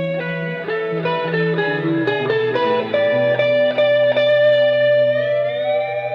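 Guitar playing a picked melodic line of single notes over held low notes, with one note sliding slowly upward near the end.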